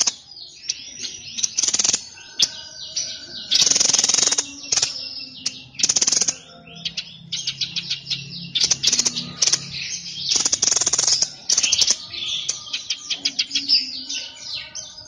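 A songbird of the kind Indonesian bird-keepers call the "sniper" bird, singing without pause at full voice. Loud rasping trills come roughly every two seconds, with rapid chirps and whistled notes between them.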